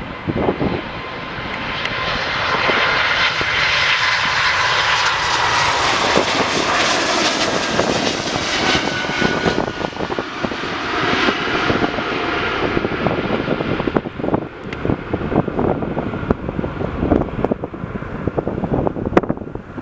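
Jet airliner's engines passing the runway: a rushing roar with a steady whine that builds over the first few seconds, holds, then fades away about two-thirds of the way through. Gusty wind buffets the microphone as the engine noise dies down.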